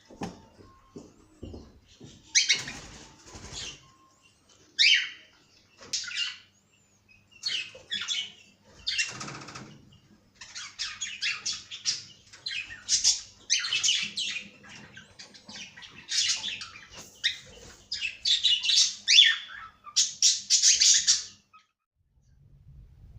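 Cockatiel chirping and calling in short, harsh bursts, sparse at first, then in quick, busy runs through the second half until about two seconds before the end. A few soft low knocks in the first couple of seconds.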